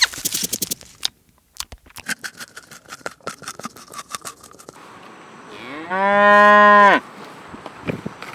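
A cow moos once about six seconds in: a single loud call lasting about a second that rises, holds and falls in pitch. Before it come scattered sharp clicks and short chirps.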